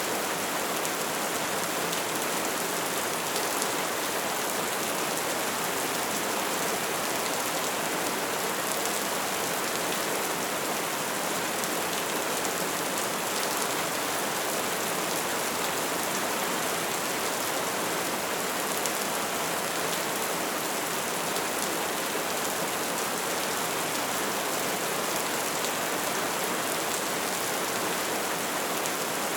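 Wood fire burning, a steady hiss thick with small crackles and pops.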